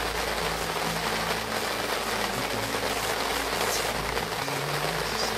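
Rain on a vehicle, heard from inside: a dense, steady hiss, with low tones that shift in pitch underneath.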